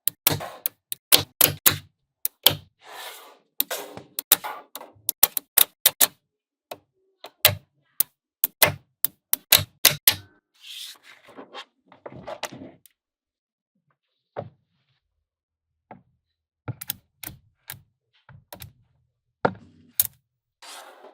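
Small magnetic balls clicking as they snap onto one another, in quick runs of sharp clicks with short rattling spells between. The clicks pause for about three seconds in the middle, broken by a single click.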